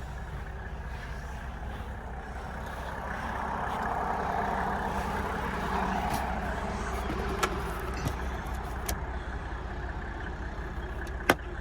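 A vehicle engine idling steadily, with a few light clicks late on.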